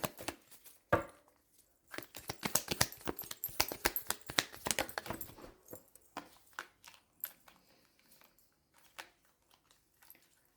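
A deck of reading cards shuffled by hand: a sharp snap about a second in, then a dense run of quick papery clicks for a few seconds, thinning out to scattered single flicks and taps.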